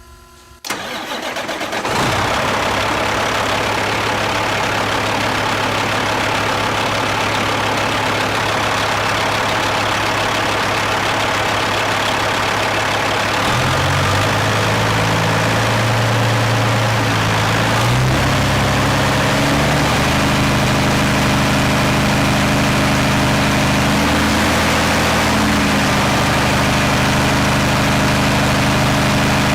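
Caterpillar 3406E inline-six diesel engine cranking briefly and starting about two seconds in, then running steadily. Engine speed steps up about halfway through, dips briefly, then rises again and holds. It is being run to retest fuel pressure after a shim was added under the fuel pump's pressure relief valve spring.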